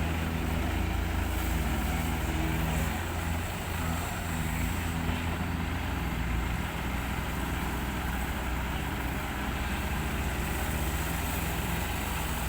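Excavator's diesel engine running under load as it scoops soil into a ten-wheel dump truck, a steady low drone with slight shifts in pitch as the arm works.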